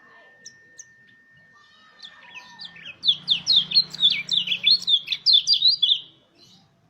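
Pleci (white-eye) singing a fast run of sharp, high chirps that starts about three seconds in and lasts about three seconds.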